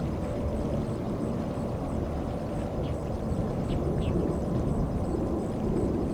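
Jet airliner engines rumbling steadily at a distance, a low even roar, with a few faint chirps about halfway through.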